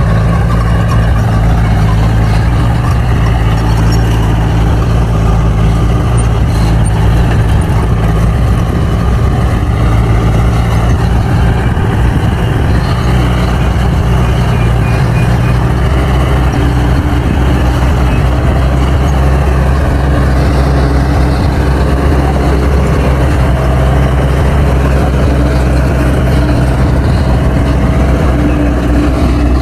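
Bulldozer's diesel engine running loudly and steadily, its pitch dipping and rising again a few times as the load changes.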